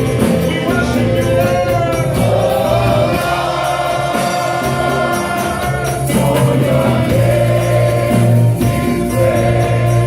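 Gospel worship music with a choir singing over a steady bass and a tambourine keeping the beat.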